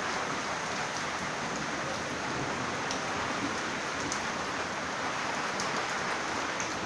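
Heavy rain falling steadily: an even hiss of rain on surfaces with a few faint drop ticks and no thunder.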